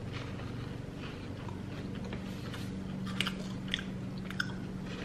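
Close chewing and biting of a Cadbury Crunchie bar, honeycomb toffee coated in milk chocolate, with a few small sharp crunches between about three and four and a half seconds in.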